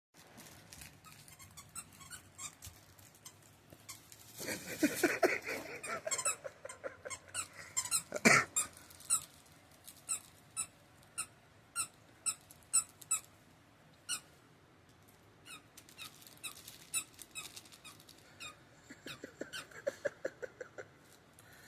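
A dog chewing a squeaky plush octopus toy, the squeaker giving short irregular squeaks, with a longer run of squeals about five seconds in and again near the end.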